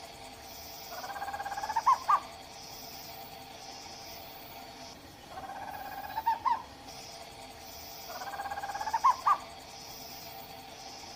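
Owl calls repeated three times at even spacing. Each call is a trembling trill that rises over about a second and ends in two sharp, louder notes.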